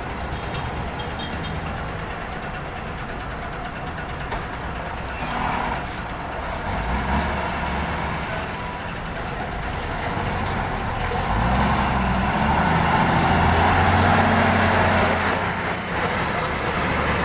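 Heavy truck engine running with road noise, a steady low drone that grows louder about seven seconds in and is loudest from about twelve to fifteen seconds.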